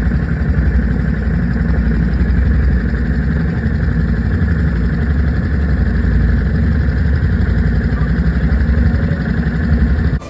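An engine running steadily close to the microphone, cutting off abruptly near the end.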